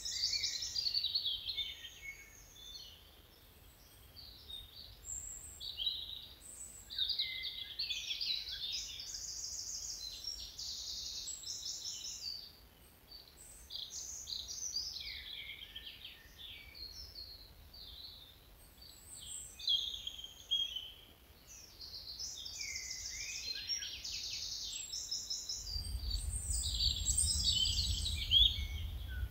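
Several songbirds singing at once, overlapping rapid trills and short chirps with little pause. A low rumble joins near the end.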